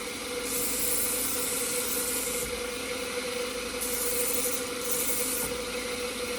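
Belt sander running with a steady hum while a knife blade is drawn across the moving belt in three passes of hissing grind, the first about two seconds long and the other two short, sharpening the edge.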